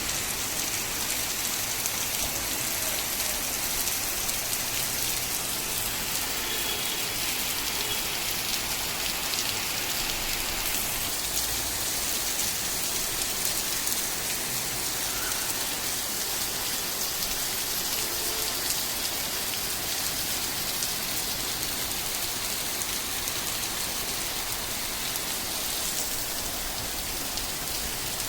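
Heavy rain falling steadily and drumming on surfaces, a dense hiss made of countless fine drop impacts.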